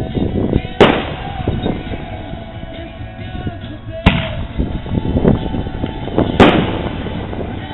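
Consumer fireworks going off in a continuous barrage of launch thumps and crackling bursts, with three sharp, loud reports about a second, four seconds and six and a half seconds in.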